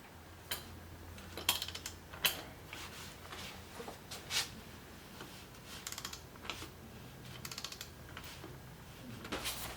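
Hand tools clicking and clinking on metal parts while the nose wheel is fitted: irregular single knocks, with short runs of quick ticks every couple of seconds.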